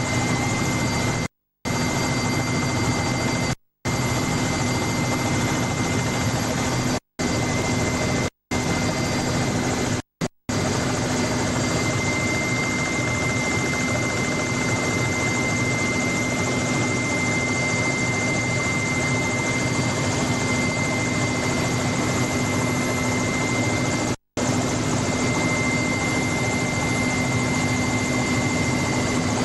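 Helicopter in flight heard from on board: a steady, loud rotor and engine noise with a constant low hum and a high whine. The audio cuts out to silence briefly several times, mostly in the first ten seconds and once more near the end.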